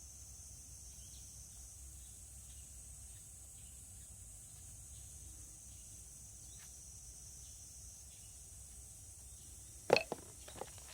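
Steady high chirring of insects, with a low background rumble. Near the end comes one sharp knock, followed by two smaller clacks.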